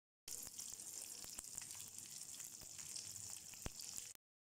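Shallots, garlic and ginger sizzling gently in a little hot oil in a wok with tempering spices, a soft steady frying hiss with a few faint pops. It cuts out briefly at the start and again near the end.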